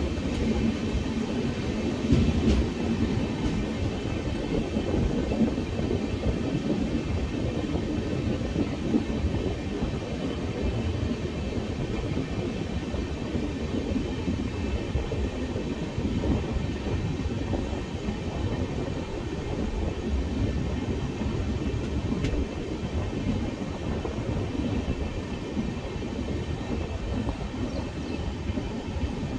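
Steady rumble of an express passenger train running along the line, heard from on board the coach, with wheel-and-rail noise and a few sharp clicks.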